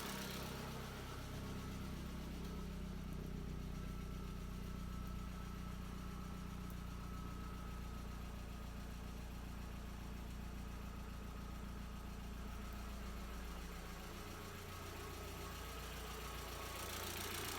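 VW 1.8T turbocharged four-cylinder engine idling steadily on its first run after a cylinder head and head gasket replacement.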